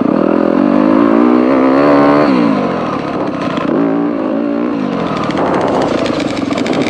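Dirt bike engine running under load, its pitch climbing and dropping twice as the throttle is opened and rolled off.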